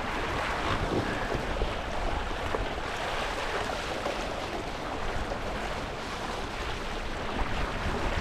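Steady wind buffeting the microphone over the rush and splash of water along a sailing windsurf board.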